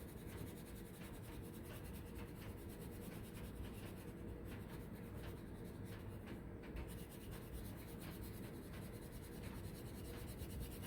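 Green crayon scribbling rapidly back and forth on a paper template, colouring in the leaves; a faint, continuous scratching.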